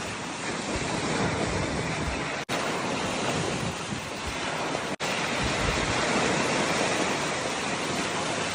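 Steady loud rushing noise with no distinct pitch, broken twice by very brief dropouts, about two and a half and five seconds in.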